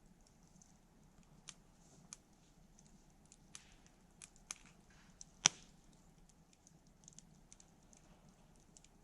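Wood campfire crackling: scattered small snaps, with one sharp, much louder pop about five and a half seconds in.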